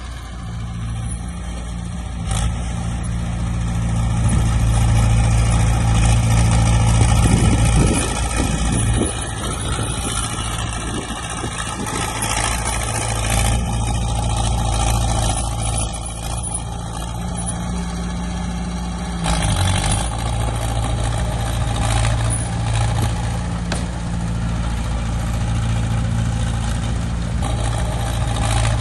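Heavy diesel engines of earthmoving machines (dump trucks and a bulldozer) running steadily, growing louder for a few seconds about four to eight seconds in.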